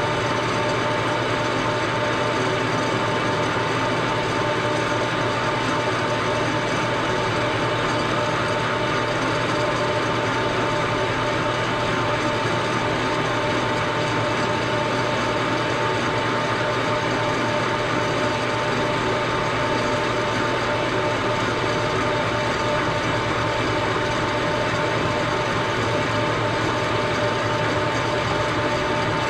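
A metalworking machine tool running steadily, with a constant whine over the even noise of the machining.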